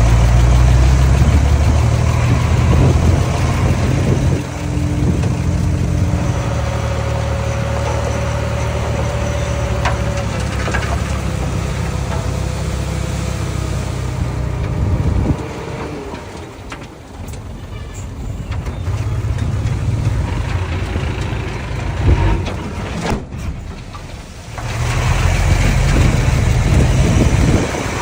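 Diesel engine of a small crawler bulldozer running under load, its level rising and falling and dropping away twice for a few seconds. A brief squeal and a few sharp clanks are heard in the first half.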